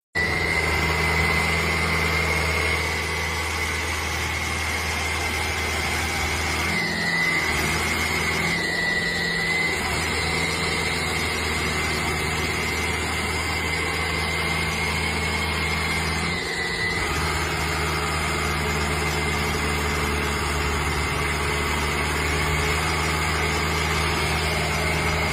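Fiat 640 tractor's four-cylinder diesel engine running steadily, with a constant high whine over it. The engine note changes briefly about 7, 9 and 16 seconds in.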